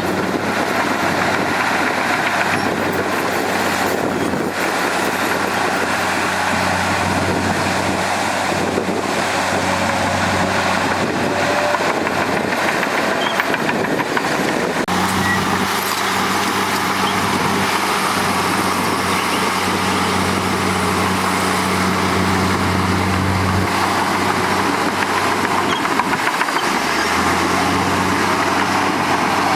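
Diesel engine of heavy earthmoving machinery running steadily, its engine note shifting about halfway through and again twice near the end as the load changes.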